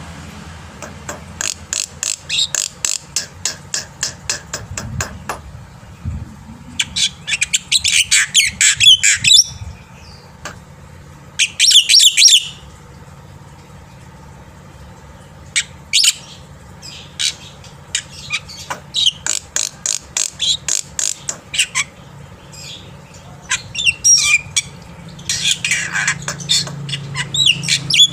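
Black-winged myna (jalak putih) singing vigorously: several loud bursts of rapid, harsh chattering notes, with scattered single calls between them.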